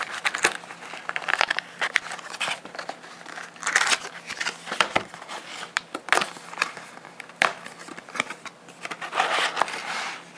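Crinkly plastic wrapping being handled and torn in irregular bursts with sharp clicks, as Pokémon trading-card packaging is opened.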